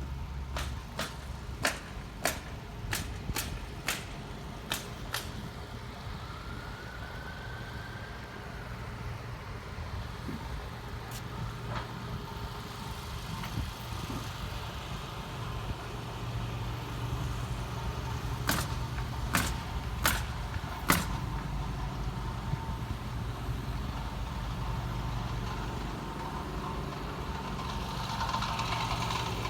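Steady low rumble of an idling engine, with a run of sharp knocks: about two a second for the first five seconds, then four more about twenty seconds in.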